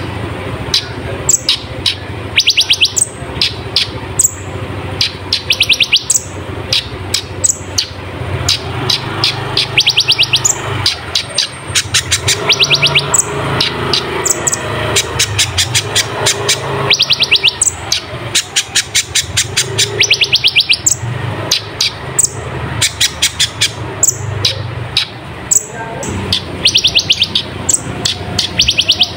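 A kolibri ninja (olive-backed sunbird) singing vigorously: bursts of rapid, sharp, high-pitched trills, some opening with quick downward-sweeping notes, repeated again and again over a steady low hum.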